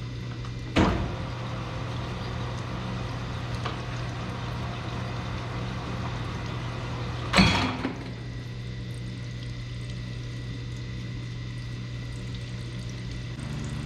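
Grinding machine motor running steadily while a galled 12-valve Cummins rocker arm is ground against its stone to take out the high spots, with a sharp contact sound about a second in and another about seven seconds in.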